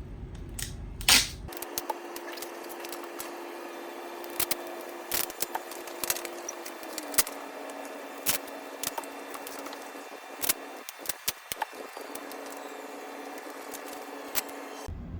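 Scattered light clicks and knocks of battery-box and terminal hardware being handled, over a faint steady hum that drops slightly in pitch about seven seconds in.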